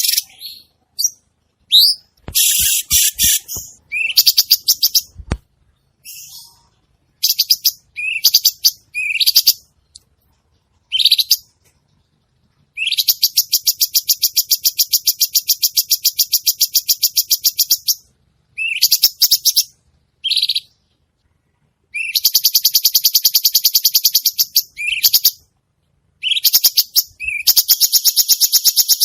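A cucak cungkok singing vigorously. It gives short, rising whistled notes, then long, fast, buzzy trills of rapidly repeated notes, three times in the second half. A few low knocks come in the first few seconds.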